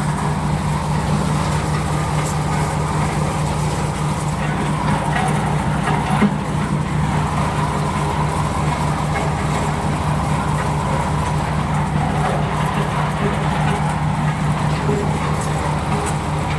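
Engine-driven corn sheller running steadily with a low, even engine hum and rattling machinery, with one brief louder knock about six seconds in.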